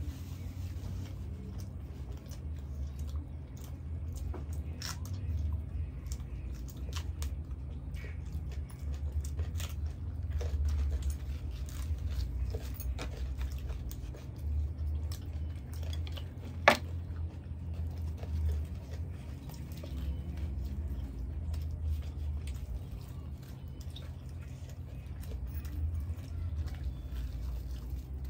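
Close-miked eating sounds of chole bhature eaten by hand: chewing and wet mouth smacks, with soft tearing of the puffed fried bread, over a low hum. A single sharp click about two-thirds of the way through.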